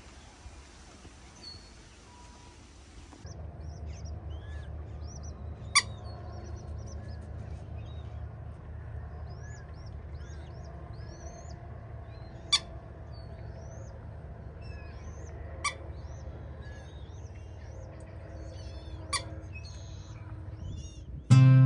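Several birds chirping and calling in short, rising and falling notes over a low steady rumble, with four sharp clicks spaced a few seconds apart. Before this, the first few seconds hold only a faint hiss.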